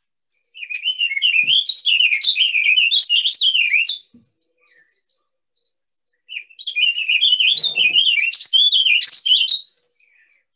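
Warbling vireo singing: two long, rambling warbled phrases of quickly rising and falling notes, each about three and a half seconds long, with a pause of about two seconds between them.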